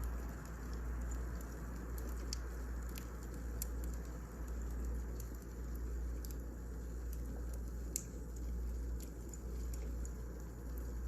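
Wood fire crackling in a fireplace: scattered sharp pops and snaps over a steady low rumble, with the loudest snap about eight seconds in.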